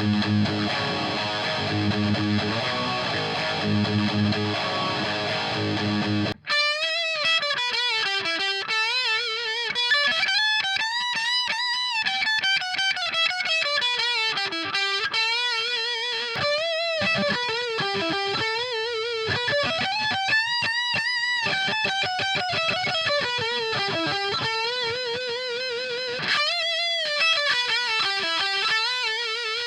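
High-gain distorted electric guitar through a mini amp head and a 4x12 cabinet loaded with V30 and ET90 speakers. A chugging rhythm riff cuts off suddenly about six seconds in, then a single-note lead with wide vibrato and bends, and the fuller riff comes back near the end.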